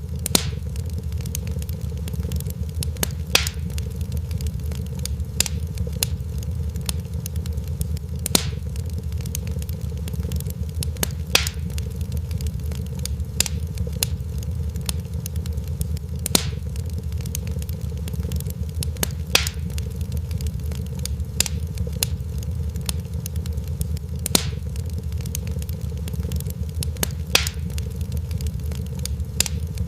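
Crackling fire: a steady low rumble under a scatter of small pops, with a louder sharp snap every few seconds.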